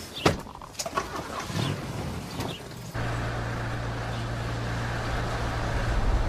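A sharp knock and some light handling sounds, then about three seconds in a Toyota police four-wheel drive's engine comes in suddenly, running at a steady, even hum.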